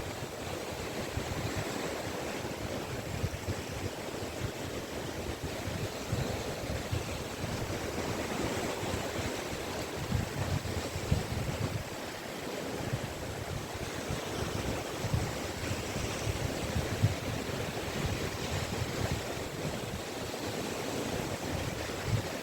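Caspian Sea waves washing onto the beach, a steady rush of surf with low surges swelling and easing every few seconds, along with some wind on the microphone.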